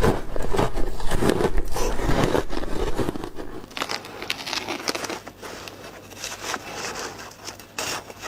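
Ice being bitten and chewed close to the microphone: dense, loud crunching for about the first three seconds, then quieter, scattered crisp crackles and snaps.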